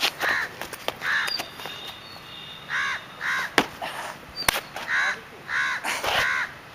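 A bird calling over and over: about seven short calls, some in quick pairs. Between them come sharp taps and scuffs from the dancer's sneakers on the stone pavement.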